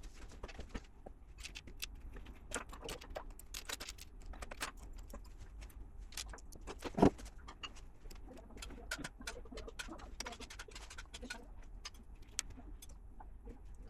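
Plastic LEGO pieces clicking and rattling as they are handled and pressed together, a quick run of small sharp clicks with one louder snap about 7 seconds in.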